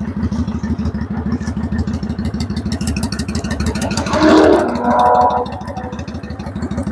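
Kawasaki Vulcan 900's V-twin engine idling with a steady, rapid low pulse. Two short, louder pitched sounds come briefly about four and five seconds in.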